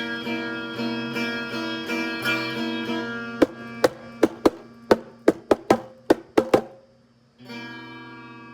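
Guitar playing: ringing strummed chords, then a quick run of about a dozen short, sharp picked notes. After a brief stop it settles into a held chord near the end.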